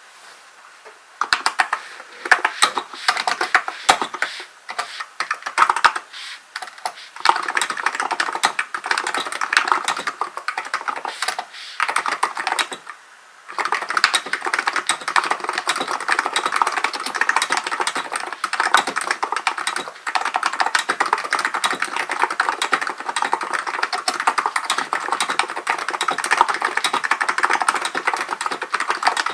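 Typing on a Hansung GK898B electrostatic capacitive (non-contact) keyboard: rapid keystrokes in a dense run of clicks. It starts about a second in, stops briefly twice, and continues steadily from about halfway through.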